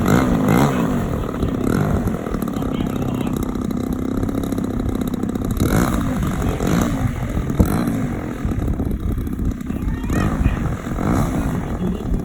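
DLE 60 two-stroke gasoline engine of a large 3D aerobatic RC plane in flight, its pitch wavering up and down with throttle changes and the plane's passes.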